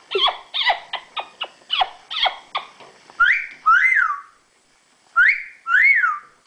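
Yellow-naped Amazon parrot chattering in a quick string of short downward-sweeping chirps. She then whistles a two-note phrase twice, about two seconds apart: a rising note, then one that rises and falls.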